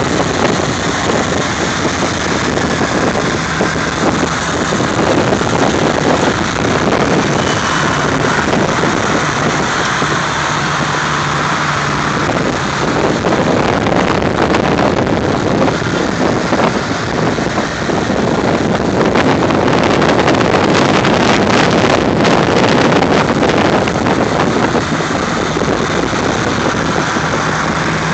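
Vintage tractor engines running as tractors drive past, with wind noise on the microphone.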